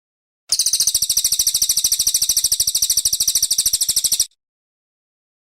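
Cililin coklat singing one long, very fast high-pitched trill of rapidly repeated notes, starting about half a second in and cutting off abruptly after nearly four seconds.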